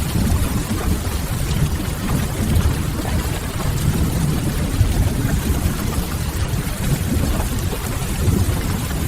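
Steady rain with a heavy, uneven low rumble underneath, part of a rain-and-fireplace ambience mix.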